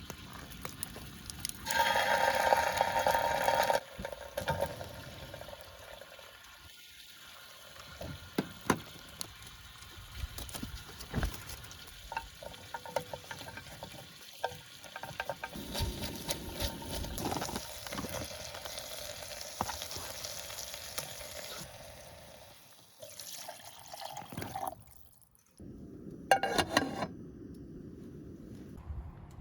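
Water running and splashing, as from a tap, loudest in a burst of about two seconds near the start, with scattered knocks and clatter between quieter stretches.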